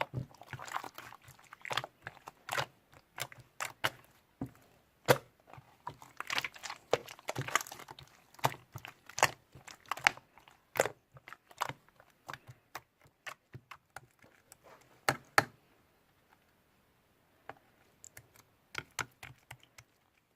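Close-up handling noise: irregular sharp clicks, crackles and crinkling that come thick and fast, thin out about three-quarters of the way in, then return as a few scattered clicks near the end.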